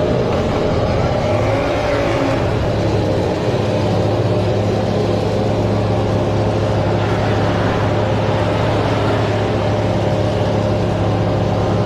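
Diesel engine in runaway, racing out of control at a steady high speed with a loud, unchanging drone.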